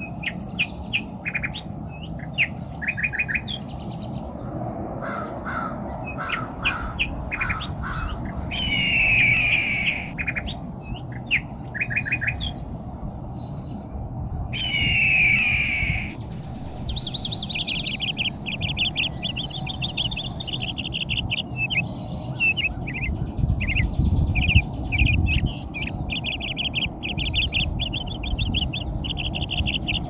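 Wild birds calling in bare trees: many short chirps, two longer downward-slurred calls, then a long run of rapid trilled notes in the second half. A steady low rumble sits underneath, swelling briefly a few times.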